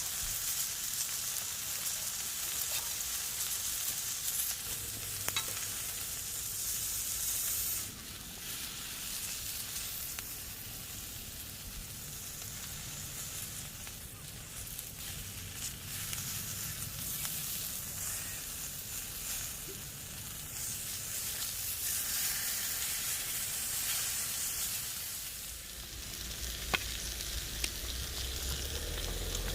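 Beef frying on a hot griddle, a steady sizzling hiss that drops suddenly in level about eight seconds in, with an occasional faint click.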